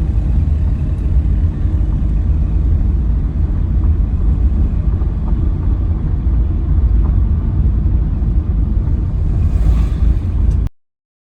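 Steady low rumble of a vehicle on the move, road and wind noise, cutting off suddenly near the end.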